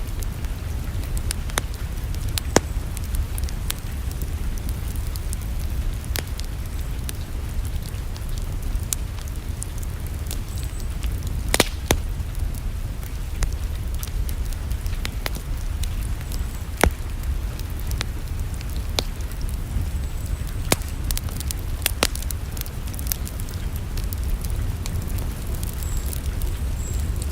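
Wood fire in a fireplace crackling, with irregular sharp pops scattered over a low steady rumble; one of the loudest pops comes near the middle.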